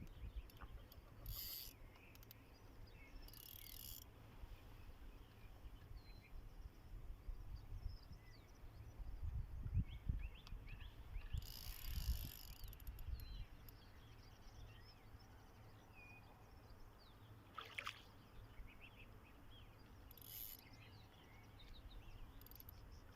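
Quiet outdoor ambience: a steady low rumble with scattered short bird chirps and a few brief hissy rustles.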